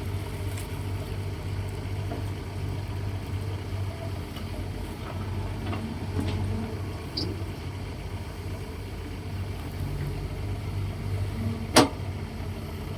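Heavy diesel machinery engine running steadily with a low, even hum. A few light knocks come through it, and there is one sharp clank near the end.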